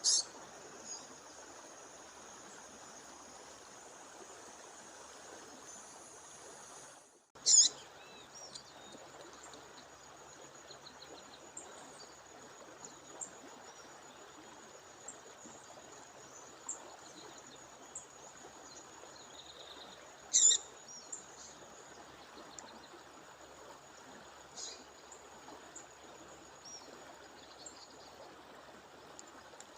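A female songbird giving short, sharp high calls, loudest four times (at the start, about 7 seconds in, about 20 seconds in and near the end), with softer chirps between, over the steady rush of a waterfall or stream.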